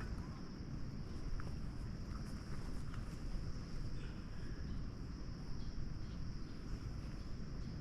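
A steady insect chorus, one continuous high shrill tone, over a low rushing noise, with a few faint ticks.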